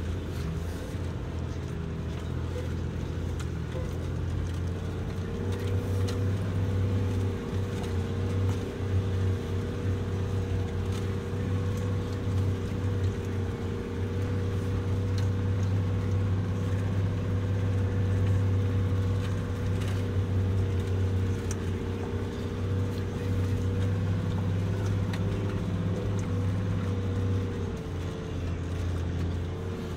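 Four-wheel-drive vehicle's engine running under load as it climbs a steep dirt track, heard from inside the cab: a steady low drone with a constant higher tone above it, growing a little louder a few seconds in.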